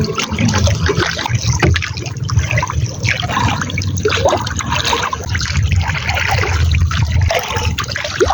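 Sea water trickling and splashing, with a steady low rumble underneath that drops away about seven seconds in.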